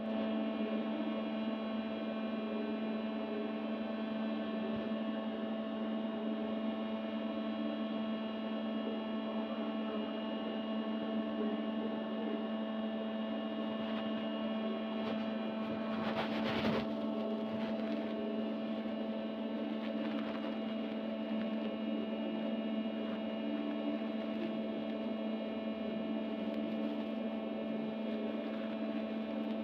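A steady electrical-sounding hum made of several fixed tones, with a brief rustling burst about sixteen seconds in.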